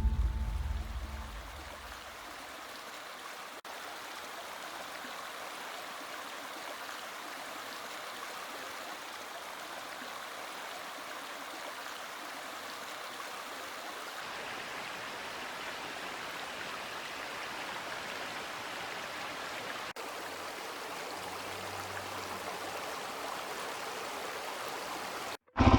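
Steady rushing of flowing stream water, an even hiss with no pitch, after background music fades out in the first couple of seconds; it stops abruptly just before the end.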